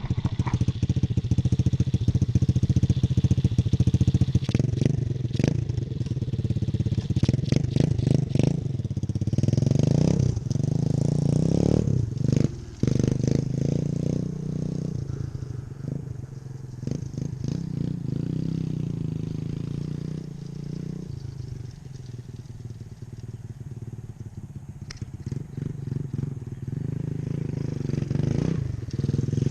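Dirt bike engine running and revving, its pitch rising and falling several times, with a softer stretch about two-thirds of the way through.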